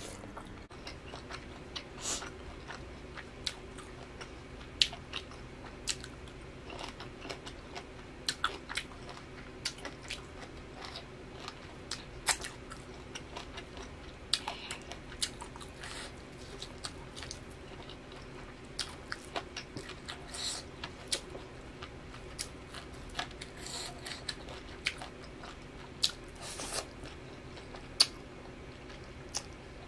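Close-miked mouth sounds of a person eating beef momos and noodles: chewing and biting, with many short, irregular wet clicks and smacks, over a faint steady hum.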